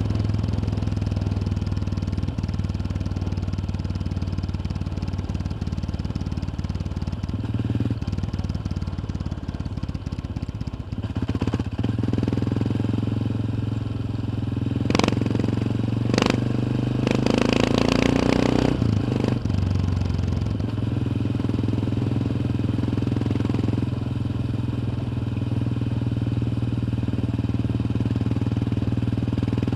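Yamaha XT 600's single-cylinder four-stroke engine running under way, heard from on board the motorcycle. The engine note eases off about a third of the way in. It then grows louder and rises in pitch around the middle as the bike accelerates, before settling back to a steady run.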